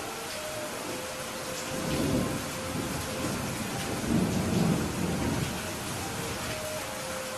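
Steady rain with low rolling thunder, which swells about two seconds in and again, louder, around four to five seconds.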